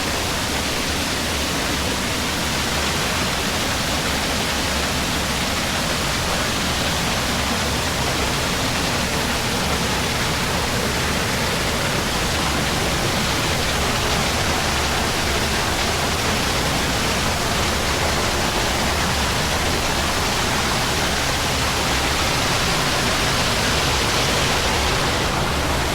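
Steady rush of river water, an even noise that does not change.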